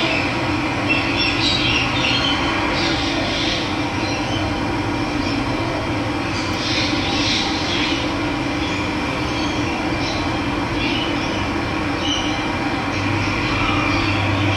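Steady rush of running water, with brief bird chirps here and there.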